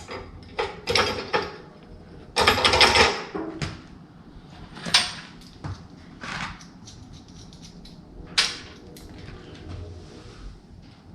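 Pieces of cut steel plate and bracket being handled: scattered metal knocks and clicks, with one louder, noisier stretch of about a second around two and a half seconds in.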